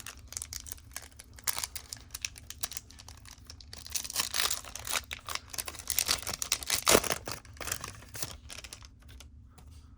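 A trading-card pack wrapper being torn open and crinkled, with cards handled and shuffled, and a sharp knock about seven seconds in.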